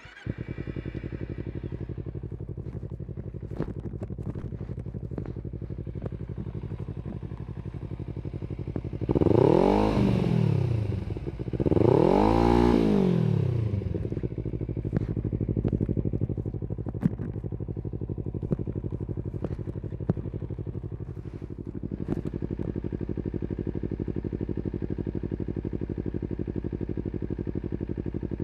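Kawasaki Z250 parallel-twin engine through an aftermarket slip-on exhaust, starting up and settling into a steady idle. It is blipped twice, at about nine and twelve seconds in, each rev rising sharply and falling back, then idles again, a little higher near the end.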